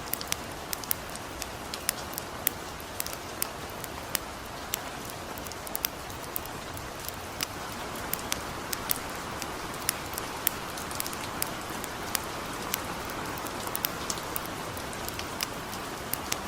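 Steady gentle rain hiss with a campfire crackling over it: frequent sharp, irregular pops, several a second.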